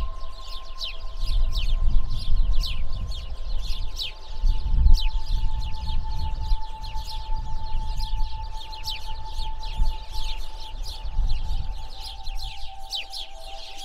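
A flock of small birds chirping densely, with many short, quick, down-slurred high calls several times a second. Under it runs an uneven low rumble, and two faint steady tones hold throughout.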